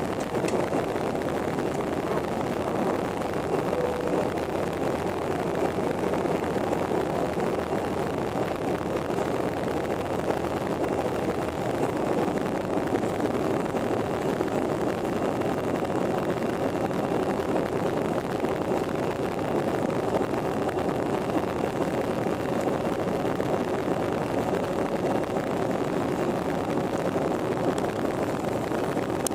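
Airplane in flight: a steady rushing drone of engines and airflow, even in level throughout.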